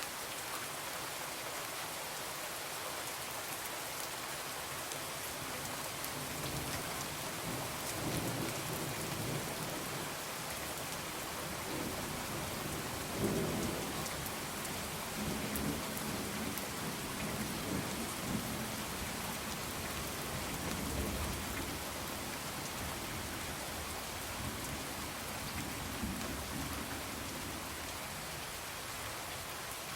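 Steady rain on a window, with a low rumble of thunder that swells in from about six seconds in and is loudest near the middle before fading. A few faint crackles from a wood fire.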